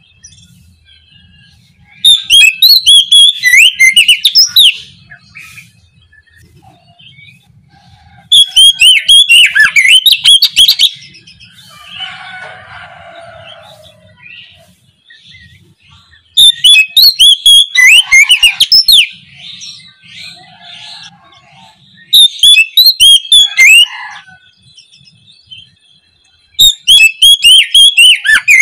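Oriental magpie-robin singing loud, rapid bouts of varied whistles and chirps. There are five bouts of two to three seconds each, separated by short pauses.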